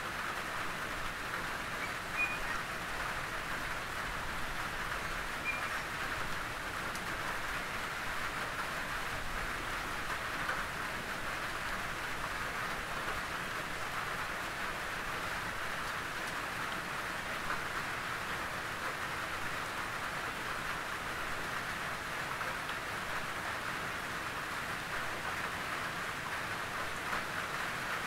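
Steady rain pattering on a tin roof, a dense, even patter with occasional slightly louder drops.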